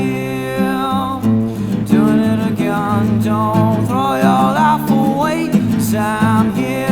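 Band music in an instrumental passage: guitar with held bass notes, and a melodic line above that bends up and down in pitch.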